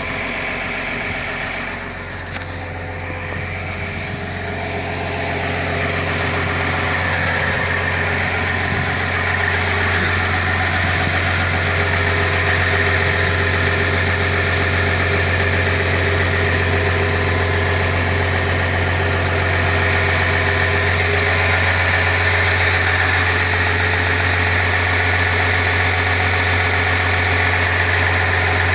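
Diesel engine of a Caterpillar 320 long-reach excavator running steadily with a deep hum. It grows louder over the first ten seconds or so, then holds level.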